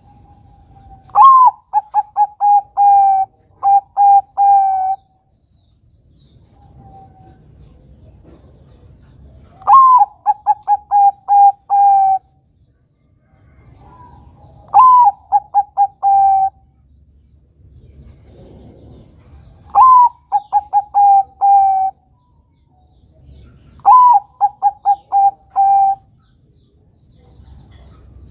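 Zebra dove (perkutut) cooing: five phrases, each a higher opening note followed by a quick run of short staccato coos, coming roughly every five seconds.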